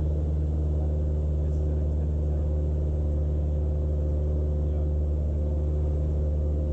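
Cessna 172's piston engine and propeller droning steadily in cruise, heard from inside the cockpit, a constant low hum with several steady tones above it.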